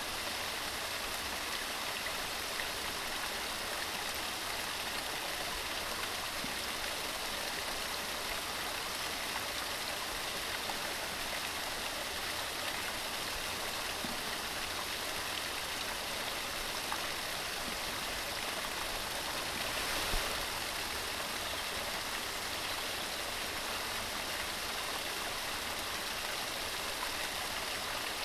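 Mountain stream running steadily: an even, continuous rush of water.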